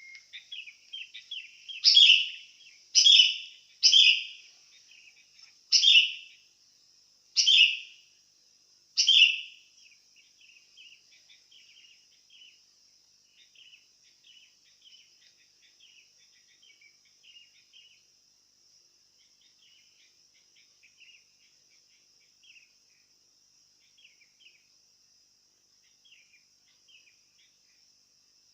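Sooty-headed bulbul (kutilang) calling. Six loud, sharp calls come about a second or two apart in the first nine seconds, followed by softer, quick chirping that goes on with gaps, over a steady high hiss.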